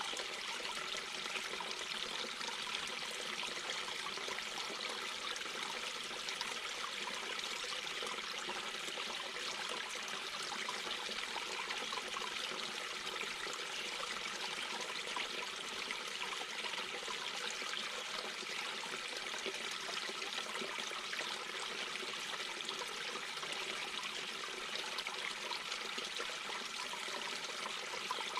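Mountain brook babbling: a steady rush and trickle of water flowing over stones.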